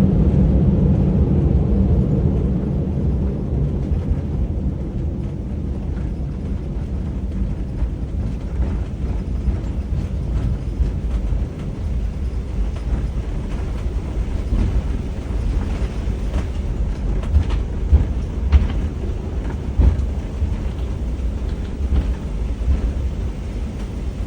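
Airbus A380 cabin noise while rolling on the runway after touchdown: a deep rumble that eases off over the first few seconds as the aircraft slows, then a steady low rumble from the wheels with a few knocks and bumps in the second half.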